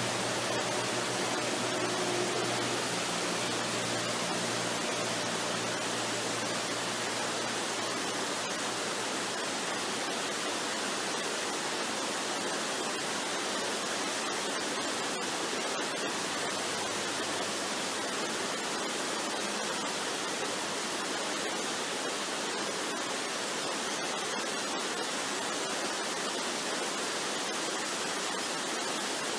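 Waterfall rushing, a steady, even roar of falling water. A few faint low sustained tones fade out in the first several seconds.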